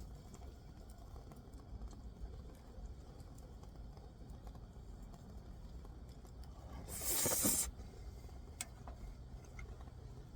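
Wood fire crackling faintly, with scattered small pops over a low steady rumble. A short loud hiss comes about seven seconds in.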